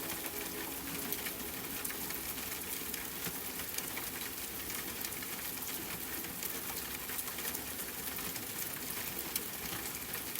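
Steady rain, with many close droplets ticking among the hiss.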